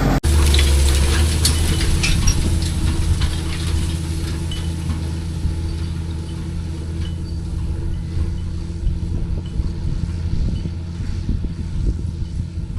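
Tractor engine running steadily while working a field, with rattles and knocks from the bouncing machinery. The engine is a little louder for the first few seconds, then eases.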